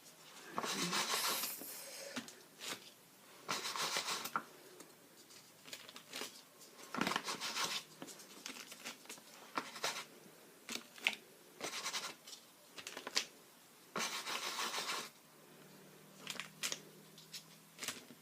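Irregular scraping and scratching strokes, each up to about a second long, with short clicks and taps between them: a tool or brush being worked over a painting surface or palette.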